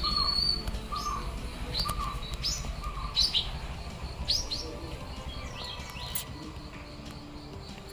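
Birds chirping: a string of short high chirps every second or so, with a lower short note repeating in the first few seconds.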